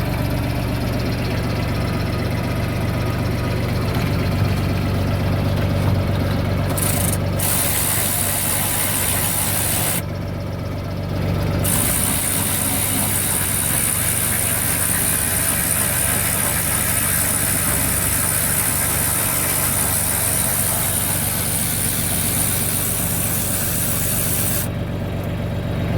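A vehicle engine idling with a steady low hum. About seven seconds in, a high-pitched whine joins it, drops out for a couple of seconds around ten seconds in, and stops near the end.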